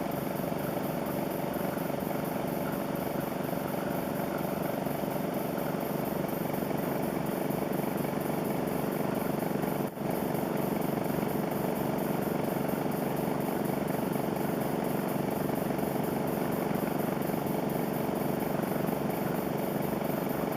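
Small model steam engine running steadily on compressed air, its fidget-spinner flywheel spinning, with a brief dropout about halfway through.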